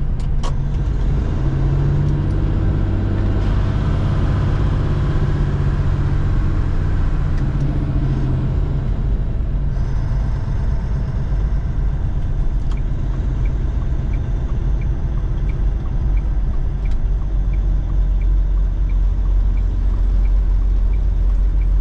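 Semi-truck diesel engine and road noise heard inside the cab: a steady low rumble with the engine note shifting as it pulls, and a light regular ticking, about one every 0.7 seconds, through the second half.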